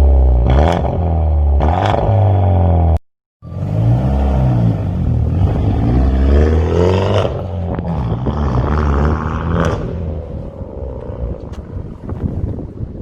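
Genesis Coupe 2.0 turbo four-cylinder engine through a full custom exhaust, revving with a few sharp cracks in the first seconds. After a brief cut about three seconds in, the revs climb, peak and fall away.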